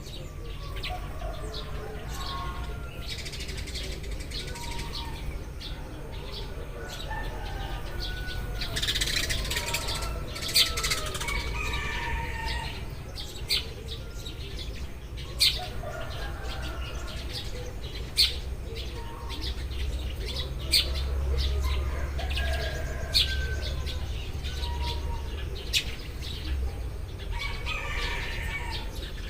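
A group of Eurasian tree sparrows chirping continuously, short chirps overlapping, with a sharper, louder chirp standing out every two to three seconds in the second half. A steady low rumble runs underneath.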